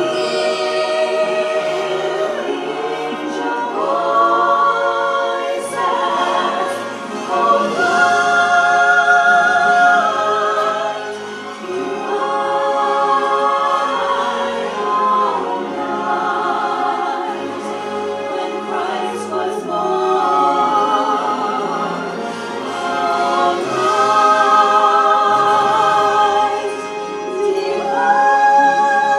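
Choral music: several voices singing long held notes with vibrato, moving together from chord to chord every few seconds.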